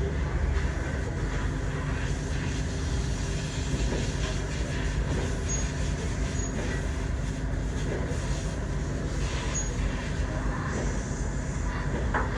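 Steady low machine rumble with a few faint steady tones running through it, unchanging throughout.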